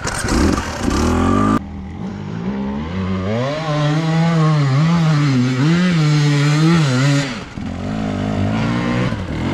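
Enduro motorcycle engine running under load on a trail, its revs rising and falling again and again. The sound changes abruptly twice, about a second and a half in and again near seven seconds, as the picture cuts between shots.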